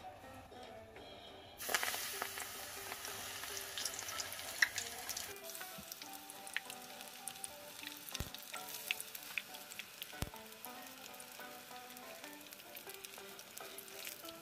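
Battered dureup (angelica tree shoots) deep-frying in hot oil. A loud sizzle starts suddenly about one and a half seconds in as battered pieces go into the oil, then settles into a steady crackling sizzle with scattered pops.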